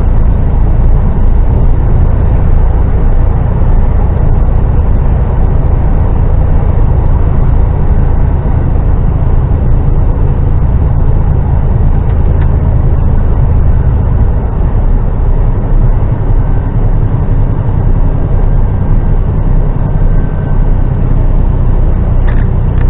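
HGV lorry's diesel engine running on the move, heard from inside the cab as a steady low drone with road noise; the deepest part of the drone eases off a little about two-thirds of the way through.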